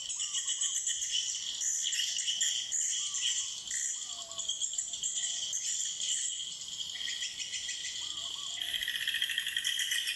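Dense, unbroken high twittering of many swiftlets in a swiftlet house, a chattering chorus that grows louder near the end.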